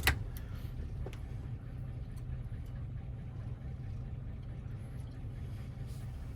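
A single sharp click right at the start, probably a small metal lock part being handled, then a steady low hum with a faint tick about a second in.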